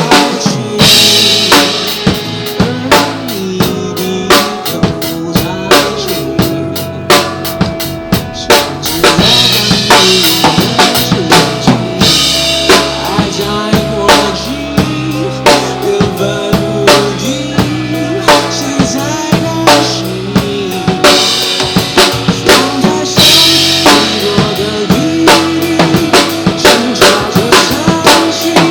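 Live drum kit played along to a pop song's backing track during a stretch without vocals: rapid kick-drum and snare hits, with rimshots, over the recorded instruments.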